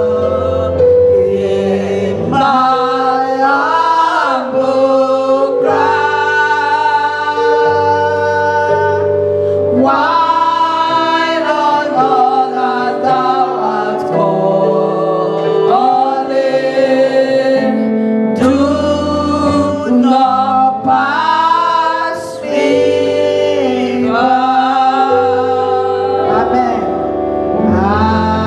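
Choir and congregation singing a gospel worship song with instrumental accompaniment, held sung notes over sustained low chords.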